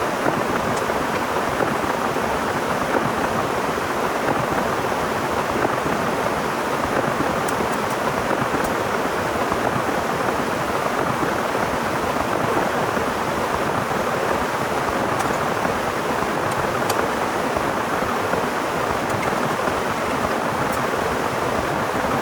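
Heavy rain pouring steadily, an even hiss with no let-up, with a few faint sharp ticks scattered through it.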